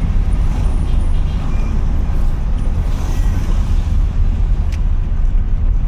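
Steady low rumble of a car driving along a city road, engine and road noise running together with an even wash of tyre noise above it.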